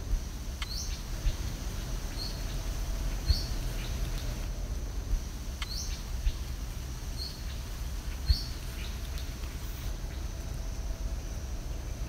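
Short, rising bird chirps every second or two over a steady high-pitched insect hum and a low rumble, with a few brief low thumps.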